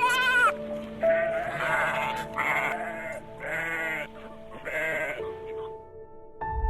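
A sheep bleating: about five short, wavering bleats, each about half a second long and a second or so apart, over soft background music.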